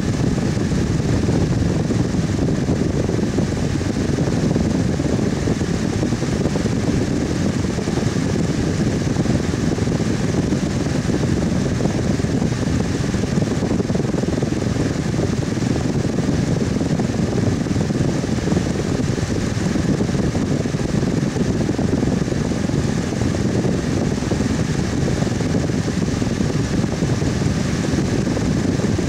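Electric fan running steadily: an even, unchanging whoosh of moving air with a low hum beneath it.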